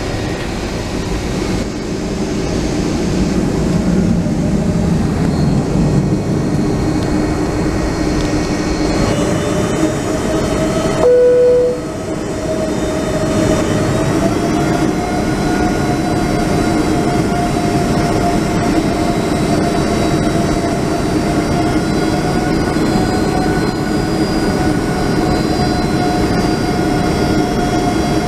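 Boeing 757-200's Rolls-Royce RB211 jet engines running, heard inside the passenger cabin, their whine rising in pitch about a third of the way in as they spool up and then holding steady. A short, loud single tone sounds just before the rise.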